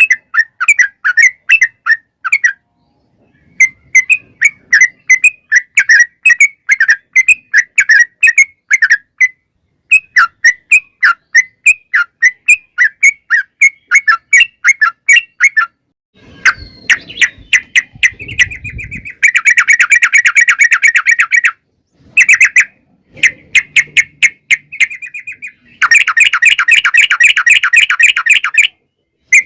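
Yellow-vented bulbul (trucukan) calling: bouts of quick, evenly repeated chirps, then from about halfway faster, denser rolling trills (the "ropel" sought as a lure). A low noise sits under the calls for a couple of seconds just past halfway.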